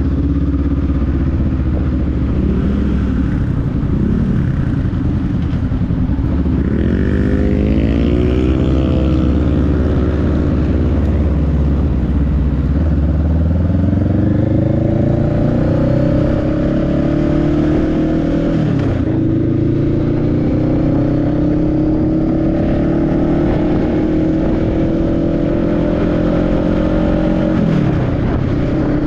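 Motorcycle engine under way, its pitch wavering at first and then climbing steadily as it accelerates, dropping sharply at the gear changes about two-thirds of the way in and again near the end.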